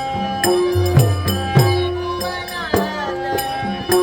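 Dashavatar folk-theatre music: a male singer's voice over steady held harmonium-like notes, a drum beating a rhythm and jingling small percussion.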